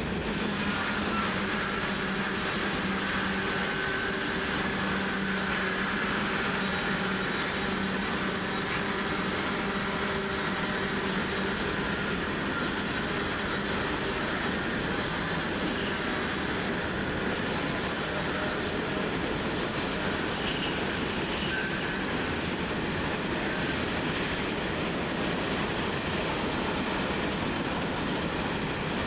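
Diesel-hauled freight train rolling along the track, its wagons clacking over rail joints, with some squealing from the wheels. The sound stays steady and dense throughout.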